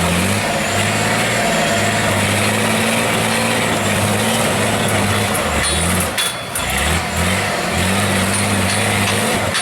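Heavy off-road trial truck's diesel engine running under load, its revs rising and falling in steps. It drops off briefly a little past the halfway point, then picks up again.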